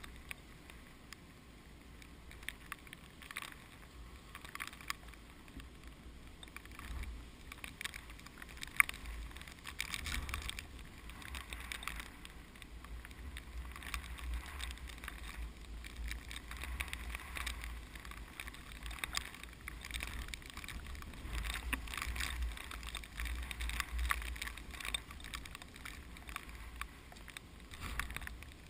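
Strong typhoon wind gusting, with a low rumble on the microphone, and rice plants rustling as the gusts rise and fall.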